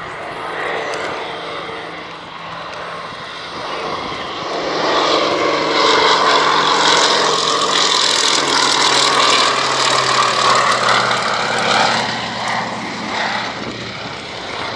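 An aircraft flying past: the engine noise builds, is loudest through the middle, and fades near the end, with its low note dropping slightly in pitch as it passes.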